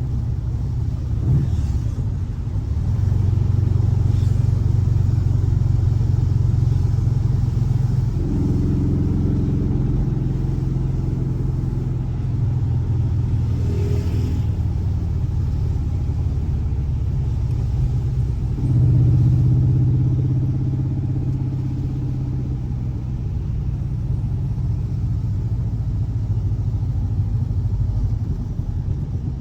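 Air-cooled 1584 cc flat-four boxer engine of a Volkswagen Fusca (Beetle) running steadily. Its note changes about eight seconds in, and near nineteen seconds it swells louder, then eases back over the next few seconds.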